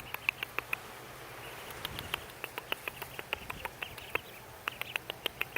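Ducklings peeping: a stream of short, high cheeps, several a second, rising and falling in number.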